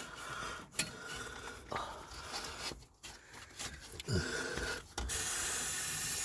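Scrubbing and rubbing on a grimy part being cleaned, then about five seconds in a steady hiss of degreaser being sprayed on.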